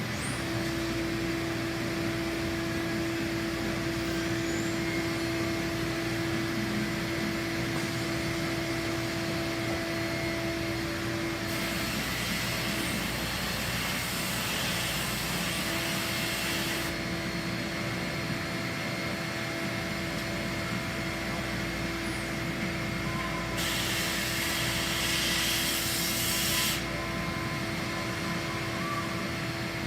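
Fanuc Robodrill CNC vertical mill running with a steady whine over a low hum. It is broken twice by a burst of hiss, one about five seconds long near the middle and one about three seconds long toward the end.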